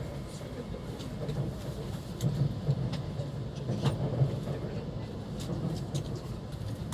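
Steady low rumble of a Tohoku Shinkansen Hayabusa train running on the rails, heard inside the passenger car. Scattered faint clicks run through it, with a sharper tick about four seconds in.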